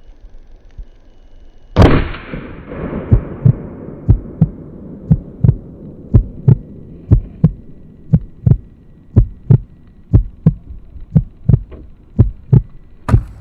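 One loud AR-15 shot with a .223 round about two seconds in, with a long echoing tail. It is followed by a heartbeat sound effect: paired low thumps, about one pair a second.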